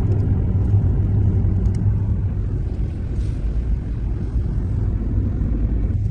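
Steady low rumble of a car driving on the road, engine and tyre noise running evenly with no change.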